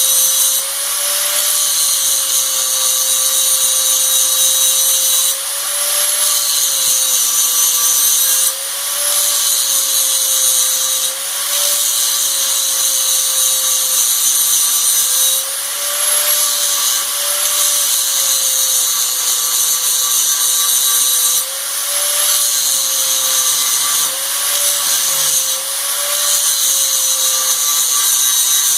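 Angle grinder grinding down steel, its motor whining steadily under load. Every few seconds it is briefly eased off the work and the pitch rises a little, then drops back as it bites again.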